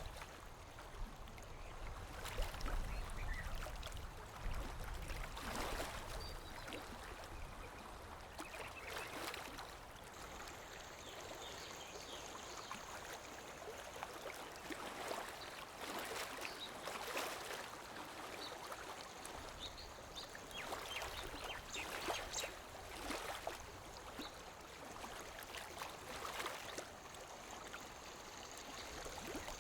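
Small waves lapping against a lake shore: soft, irregular splashes every second or two over a steady water hiss.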